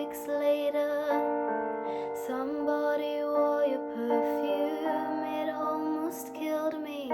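A woman singing a pop ballad melody over a piano-and-keyboard instrumental backing track of steady held chords.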